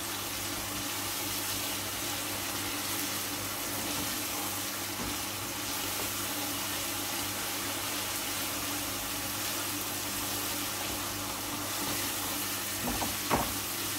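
Chicken and potatoes in masala sizzling steadily as they are fried on a high flame in a non-stick kadai, turned now and then with a spatula. A few sharp clicks of the spatula against the pan come near the end.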